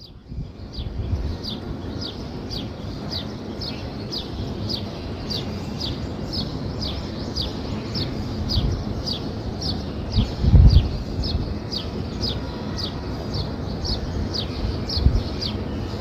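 A bird repeating a short, high chirp that falls in pitch, about twice a second and very regular, over a low rumbling background with a louder low thump about ten and a half seconds in.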